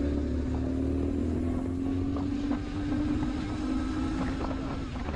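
BMW R1150 GS Adventure's boxer twin engine running as the motorcycle rides along, its steady note climbing slowly and easing off near the end.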